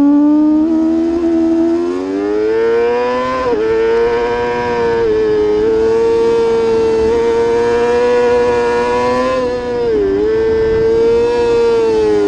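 Racing motorcycle engine at high revs under throttle: its pitch climbs a couple of seconds in, dips briefly as it shifts, holds high and steady, dips again near the end and settles a little lower.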